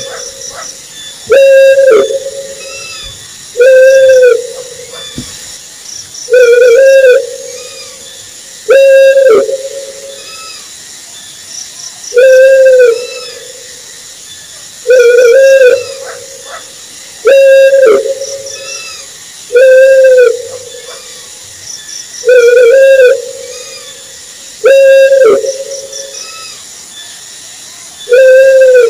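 An owl hooting over and over: loud single hoots, each under a second and arched in pitch, repeating about every two and a half seconds.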